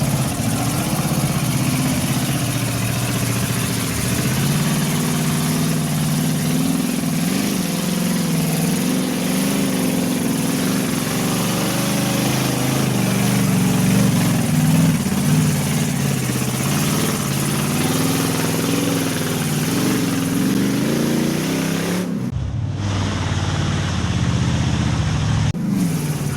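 Off-road vehicle engine running hard under load, revving up and down so its pitch keeps rising and falling. For about three seconds near the end the sound goes muffled, losing its high end.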